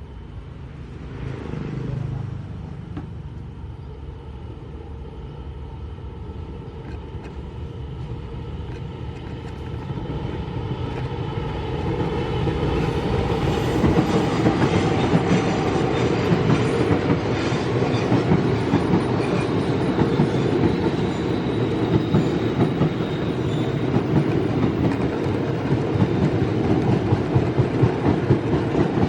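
A train passing close by on the track, its wheels clattering over the rail joints. It grows louder over the first ten seconds or so, then stays loud as the cars roll past.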